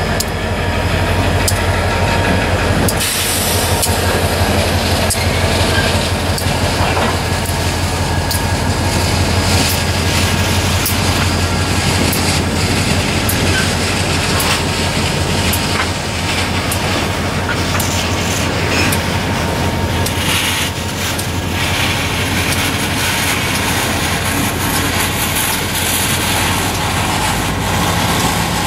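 Trailing EMD diesel-electric locomotives of a freight train passing close by, their engines running with a steady low drone over the rumble and rattle of the train, with sharp clicks from the wheels on the rails.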